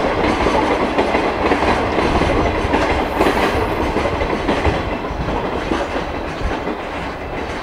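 JR Freight express container train running past, its container flat wagons' wheels knocking over the rail joints. The sound fades gradually as the last wagon goes by, about four seconds in.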